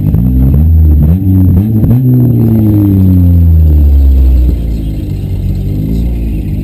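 Demolition derby car engine revved in several quick blips, then held high and let down slowly, settling to a lower steady idle about four and a half seconds in.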